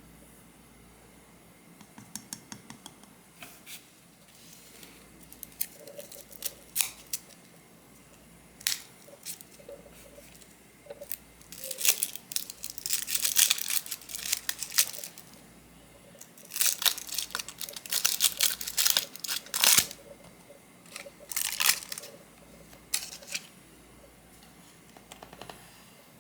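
Close-up crinkling and tearing handling noises that come and go in irregular bursts of a second or two, with crisp clicks between them.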